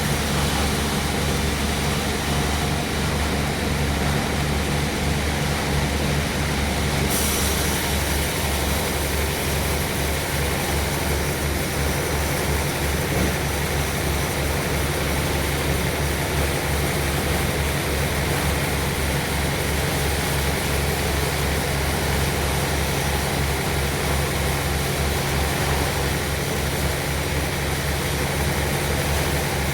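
Sawmill machinery running steadily: a low engine-like drone with a fast, even pulse. A higher hiss joins about seven seconds in.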